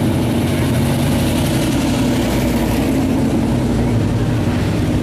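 Car engine running steadily at low revs, with a low, even tone.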